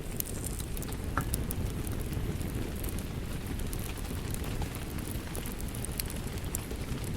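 Steady rain with a low, dense rushing, over a wood fire crackling with scattered sharp pops and snaps, one a little over a second in.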